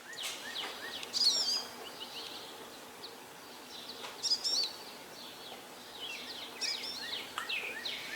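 Songbirds singing outdoors: a warbled, gliding phrase repeated about every three seconds, over scattered short chirps.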